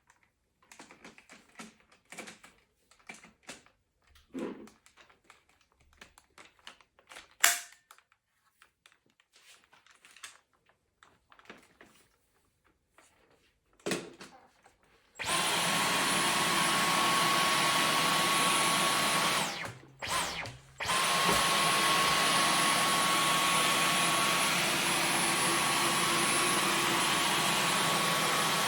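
Scattered clicks and knocks of handling, then the Dyson V15 Detect cordless stick vacuum starts about halfway in, running with a steady rush of air and a thin high whine. Around two-thirds of the way in it stops for about a second, with one short blip, then runs again.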